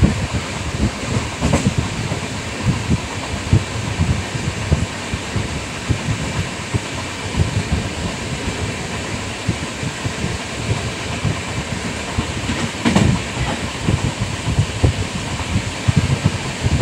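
Passenger train running at speed, heard from inside a coach: a steady rumble with a rapid, uneven run of wheel knocks on the rails, and a louder clatter about thirteen seconds in.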